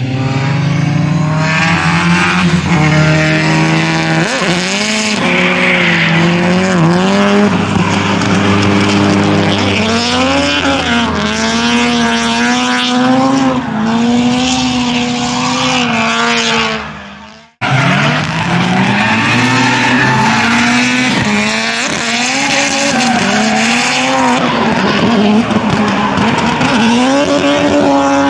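Drift car on track, its engine revving up and down repeatedly over tyre squeal and skidding. The sound fades out and cuts abruptly about two-thirds of the way through, then picks up again.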